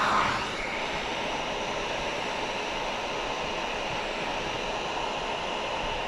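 Electric heat gun blowing hot air in a steady whoosh, a little louder in the first half second, used to shrink out a speck in freshly applied window tint film.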